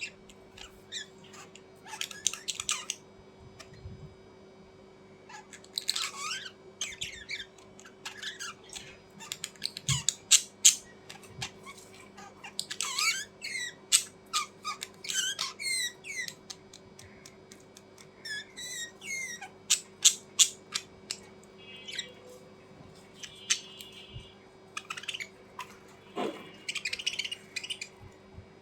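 Small birds chirping and squeaking: many short, high calls and sharp clicks in irregular bursts, over a faint steady low hum.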